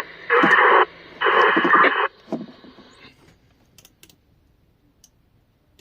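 Emergency-services scanner radio: two short bursts of radio static over a steady low hum. The transmission drops out about three seconds in, leaving a few faint clicks.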